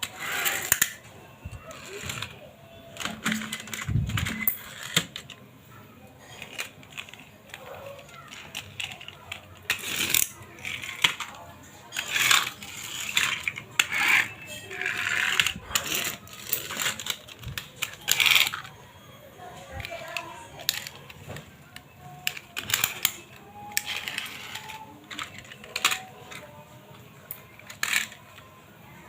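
Toy cars clicking and clattering against one another and the box as they are handled and set down, in an irregular string of sharp clicks and short rattles.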